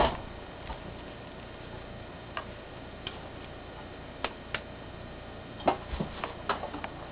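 Scattered small clicks and taps of hands and tools handling an RC truck's spur gear and plastic parts. They come a few at a time at first, then more closely together near the end.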